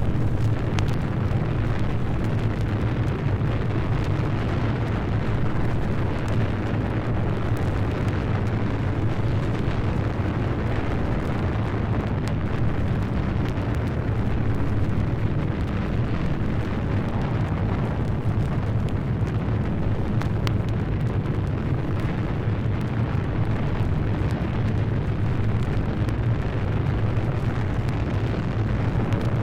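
A steady, deep roaring rumble with a few scattered crackles, unchanging throughout: a recorded disaster sound effect of the fire or earth-rumble kind.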